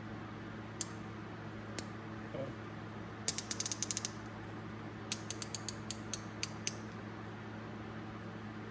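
Old Snap-on hand ratchet clicking as its pawl skips over the gear teeth: two single clicks, then a quick run of about ten clicks, then a slower string of about nine.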